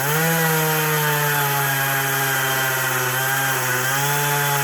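Gas chainsaw revving up from idle and then held at steady full throttle, cutting into a tree limb.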